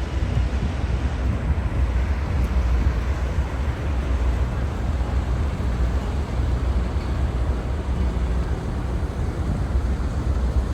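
Fishing boat's engine running with a steady low drone, mixed with wind noise on the microphone.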